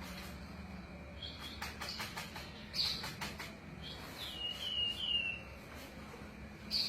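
Yellow-vented bulbul (trucukan) giving short chirps and then three quick downslurred whistled notes. A run of sharp clicks or flutters comes about two to three seconds in, over a steady low hum.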